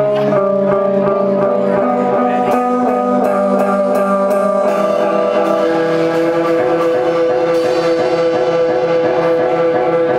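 Rock band playing live: sustained guitar notes and chords over drums, with a run of steady cymbal or hi-hat strokes for a couple of seconds in the first half.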